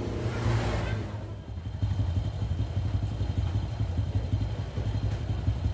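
Honda Supra Fit's small single-cylinder four-stroke engine idling steadily, while its carburetor's idle speed and air mixture are being set.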